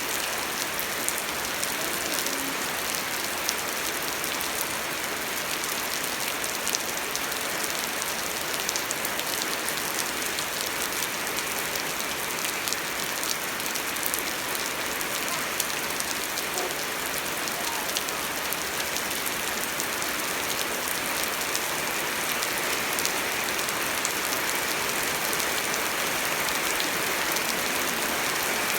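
Steady rain falling, an even hiss with a dense patter of small drop hits.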